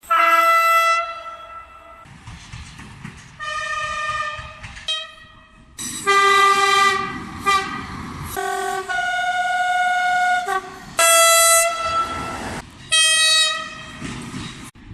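Train horns sounding in a quick string of about ten blasts of different pitches, some short toots and some held for a second or two, with a low rumble of the train between several of them.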